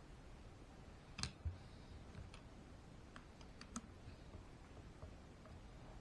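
Small sharp clicks and taps of hard plastic and metal RC-truck parts and tools being handled and fitted: a pair of louder knocks a little over a second in, then a few lighter clicks.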